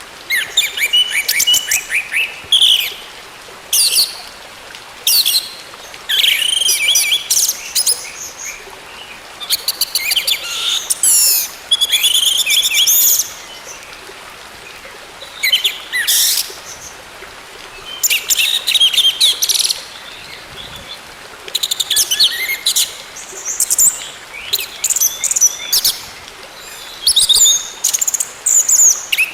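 Orange-headed thrush singing: fast, varied phrases of high whistles, trills and chattering notes, each lasting up to about two seconds, with short pauses between them.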